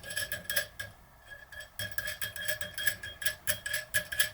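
Small steel parts clicking and clinking as the bearing press and freehub body are handled and taken apart, with a faint metallic ring hanging under the clicks. The clicks come at an irregular pace and thin out for about a second near the start.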